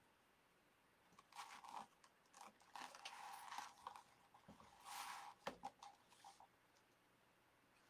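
Faint rustling and crinkling of stiff deco mesh being folded and handled, in three short spells, with a sharp click about five and a half seconds in.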